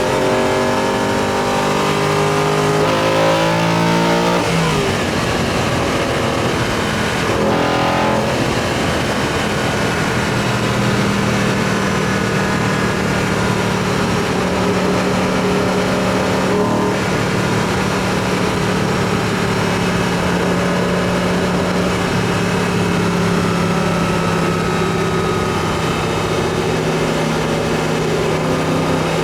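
BMW E90 M3's V8 engine breathing through an Eventuri carbon intake plenum: its note climbs under acceleration for the first few seconds, then settles into a steady drone while cruising.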